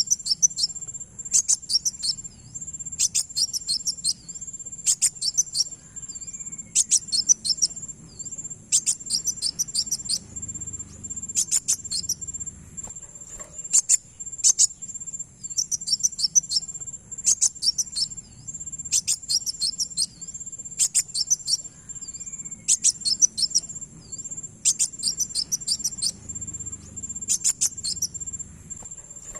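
Kolibri wulung (kowul), a sunbird, calling: short, rapid, high chittering phrases repeated every one to two seconds, over a continuous high insect-like drone.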